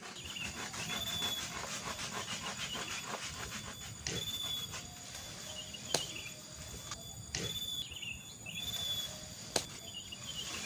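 Insects and birds calling, with fast pulsing chirps for the first few seconds. Two sharp knocks come about six and nine and a half seconds in.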